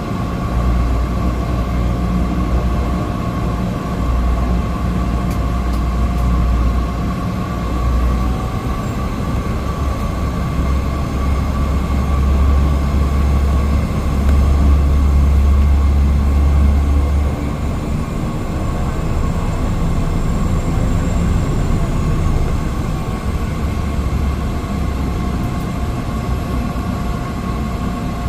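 Cabin noise of a Cessna 208 Caravan: its single Pratt & Whitney PT6A turboprop engine running with a steady high whine over a heavy low rumble that swells and eases.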